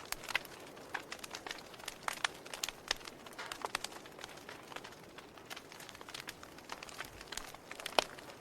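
Wood fire crackling: irregular sharp pops and snaps of burning wood over a faint steady hiss, with one louder snap near the end.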